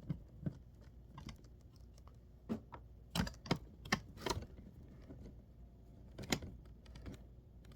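Scattered sharp clicks and taps of a laptop's plastic case, keyboard and small tools being handled during disassembly, with a quick run of louder clicks about three to four seconds in and another click a little after six seconds.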